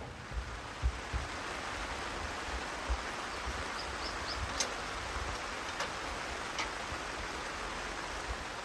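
Steady rain falling, with scattered sharp ticks and a few low thumps over it.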